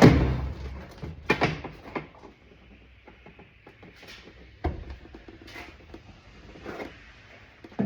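Knocks and clicks of a plastic car door trim panel being worked loose from the door: one sharp, loud knock at the start, another about a second later, then scattered softer knocks and rustling.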